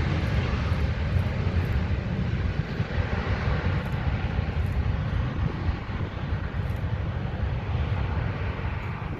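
Engine noise of a Malindo Air airliner just after landing: a steady broad rumble and roar that slowly fades.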